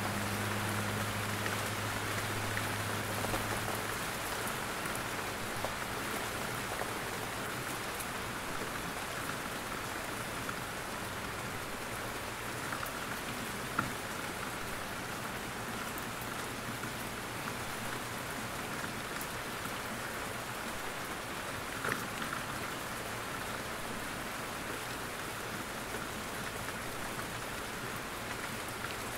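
Steady rain falling in a forest, dripping from the trees, with a couple of louder single drops standing out. A low steady hum fades out about four seconds in.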